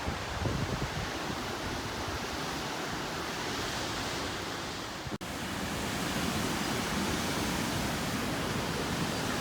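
Steady rush of water falling at a river waterfall. The noise briefly cuts out about five seconds in, then carries on a little louder.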